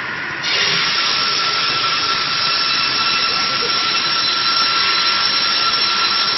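Log sawmill's saw running. About half a second in, the sound jumps sharply to a loud, high, hissing whine with steady tones, as the saw cuts through the log.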